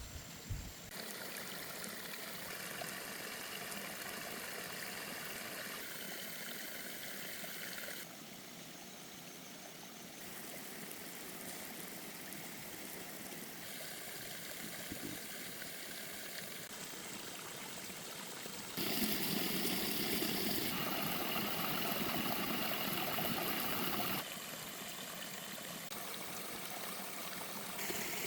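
Stream water running and splashing as a steady rush. Its loudness and tone change abruptly several times, and it is loudest for a few seconds past the middle.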